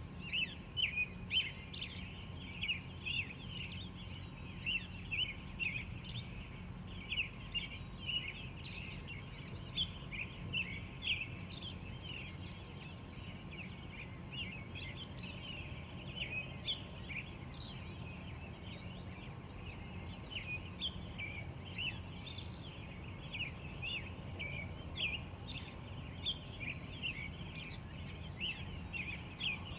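Dawn chorus of wild birds: many short, high chirps overlapping continuously. A steady high-pitched tone runs underneath.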